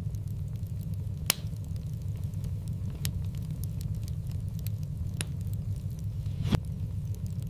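Wood fire burning in a fireplace: a steady low rumble under scattered sharp crackles and pops. There are four clear pops, about a second in, at three seconds, at five seconds, and the loudest near the end, with fainter ticks between them.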